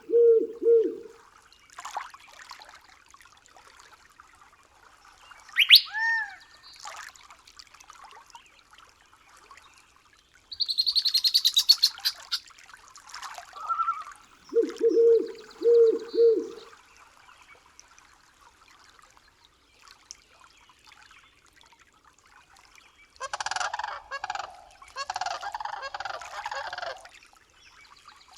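Wild birds calling in a nature soundscape. A low three-note hooting call comes twice, at the start and about halfway through. Between them are a few short chirps and a high trill, and near the end comes a string of louder, ragged calls.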